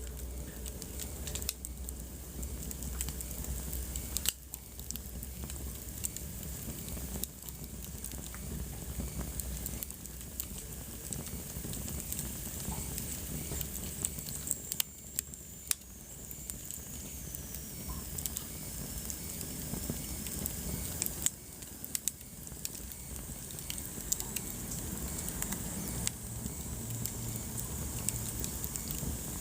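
Wood fire burning in a fireplace, crackling with many irregular sharp pops over a steady hiss. A faint high whistle slowly falls in pitch around the middle.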